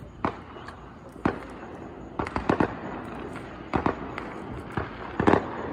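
Fireworks going off: a series of sharp bangs at irregular intervals, a few in quick succession around the middle and a loud one near the end.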